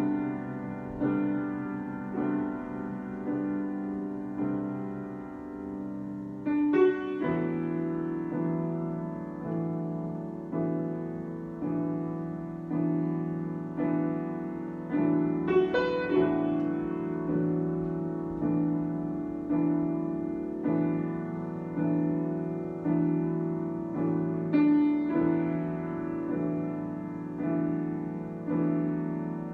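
Solo piano improvisation: sustained chords restruck about once a second in a slow, even pulse, moving to a new chord about seven seconds in, with a few brighter high notes on top.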